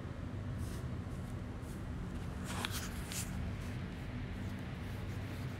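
Steady rumble of a moving passenger train heard from inside the coach, with a few short hissing scrapes in the first few seconds.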